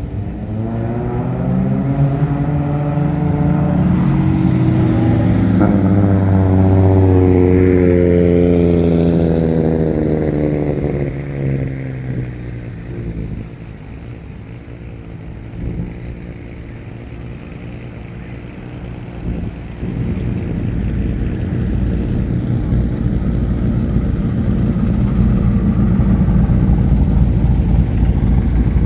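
Motor vehicle engine climbing in pitch and loudness for about six seconds, then falling away, as a vehicle accelerates past. After a quieter spell, a low engine rumble builds again near the end.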